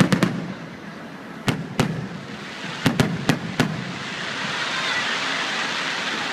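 Aerial fireworks bursting: a string of sharp bangs, some in quick pairs, over the first four seconds, then a steady rushing hiss for the rest.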